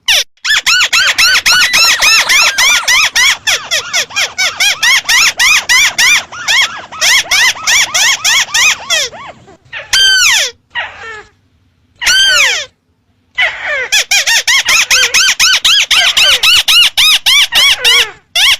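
Recorded call of a crake (burung tikusan), played as a hunting lure: a rapid run of short arched squeaky notes, about five a second. The run breaks off about halfway for a few seconds, with only a few scattered notes, and then starts again.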